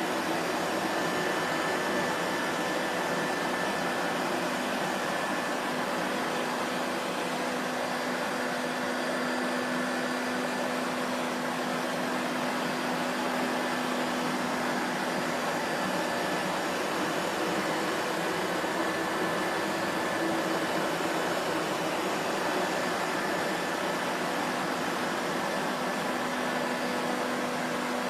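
Vacuum cleaner motor running steadily, a constant rushing drone with a steady hum, unchanging throughout.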